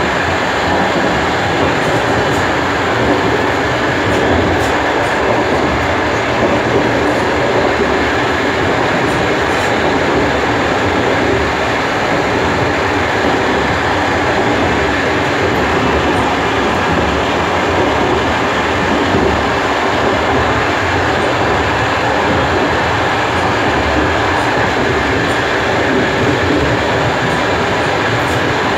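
DR1A diesel multiple unit running steadily on the rails, a continuous loud rumble of wheels and running gear with some rail clatter.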